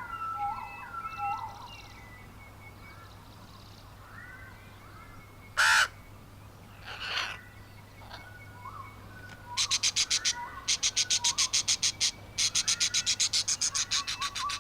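Birds calling: short repeated whistled notes at first, a loud harsh caw about six seconds in and a softer one a second later, then from about ten seconds a loud, very fast chattering call with a couple of short breaks.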